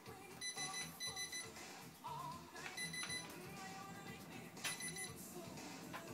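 Short, high electronic beeps, two back to back, then two more spaced out, over quiet background music.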